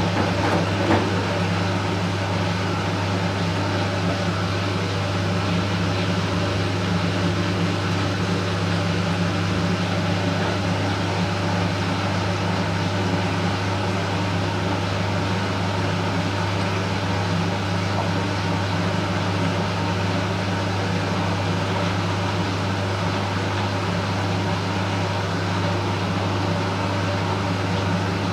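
Candy Smart Inverter CSS4 37TWMB front-loading washing machine running, a steady machine hum with a low tone that holds unchanged, with a brief click about a second in.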